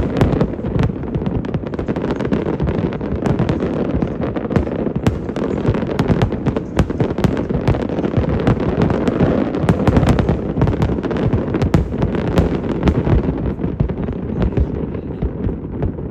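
Aerial fireworks bursting in rapid, overlapping succession: a continuous rumble of booms with many sharp cracks. The barrage thins out near the end.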